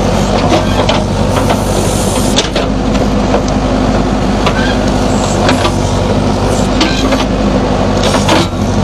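JCB backhoe loader's diesel engine running steadily under load while the front bucket dozes and spreads waste, with a few sharp metallic clanks.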